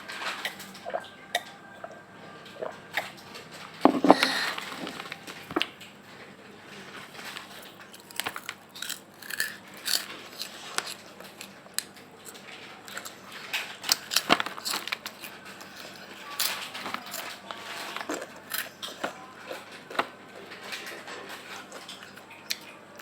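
Close-up chewing and crunching of a crispy snack: irregular crackling bites and chews, with a louder burst of crunching about four seconds in.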